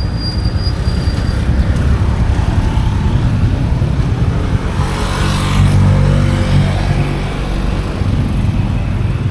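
Street traffic with a steady low rumble; about five seconds in, a passing motor vehicle's engine grows louder for a couple of seconds, then fades.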